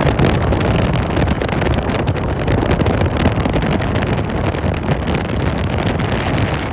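Strong wind buffeting the microphone, over the steady rumble of an Embraer E170 regional jet's turbofan engines at takeoff.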